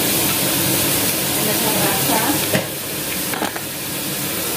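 Vegetables sizzling in hot oil in a pan while being stirred, a steady frying hiss. A spatula knocks sharply against the pan twice, about two and a half and three and a half seconds in.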